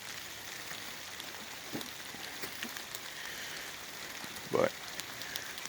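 Steady hissing background noise with faint scattered ticks.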